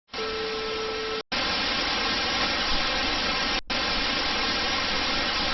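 Steady hiss like static that cuts out abruptly twice for a split second. A faint steady tone sounds under it in the first second.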